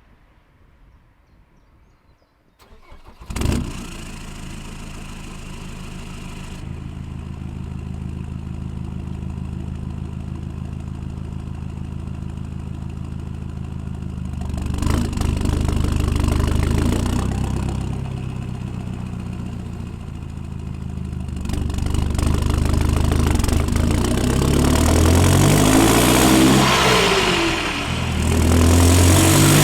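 Land Rover Defender 90's 2.4 TDCi four-cylinder turbodiesel with a straight-through exhaust, heard close to the tailpipe. It cranks briefly and fires about three seconds in with a loud bark, then idles steadily. It is revved once midway, and near the end it is blipped repeatedly, the revs rising and falling.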